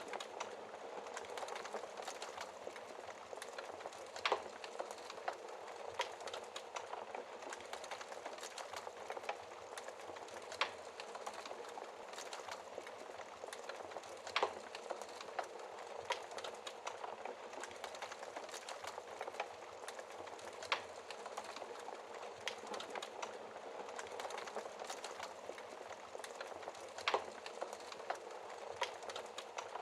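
Wood fire burning behind a glass fire screen: a steady crackling hiss with irregular sharp pops of the burning wood, several louder ones scattered through.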